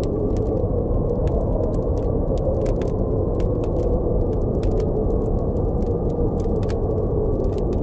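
Blizzard wind blowing with a steady low rush, over a campfire crackling with frequent sharp, irregular pops.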